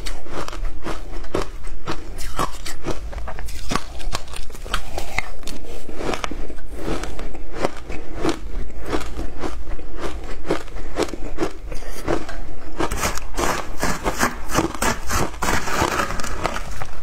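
Close-miked crunching and chewing of shaved ice topped with passion fruit pulp and seeds: a dense, rapid run of icy crunches and crackles. Near the end a metal spoon scrapes through the ice.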